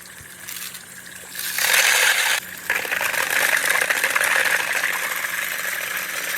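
Marble rolling along a marble-run track, a dense steady rattle. It gets loud about a second and a half in and drops out briefly a second later before carrying on.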